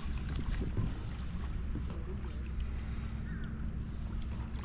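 Steady low wind rumble on the microphone, with light water splashing and small knocks from a kayak on the water.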